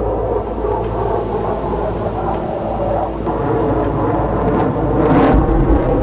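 Jet fighter engine noise, a steady rush that swells louder about five seconds in.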